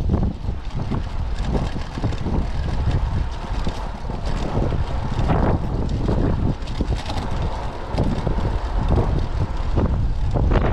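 Typhoon wind buffeting the microphone: loud, low, rumbling noise that surges and eases in gusts.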